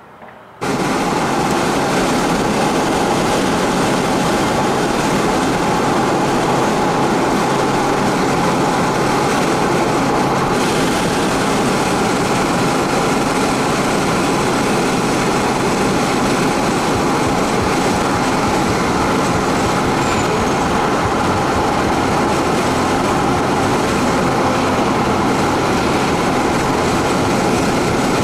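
Double-stack intermodal freight train passing close by, a loud, steady rumble and clatter of wheels and cars, with mid-train diesel locomotives going past. It starts abruptly about half a second in.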